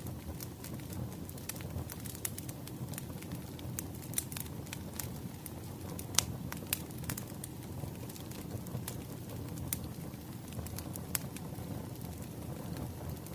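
Wood fire burning with a steady low rumble and irregular sharp crackles and pops, the loudest snap about six seconds in.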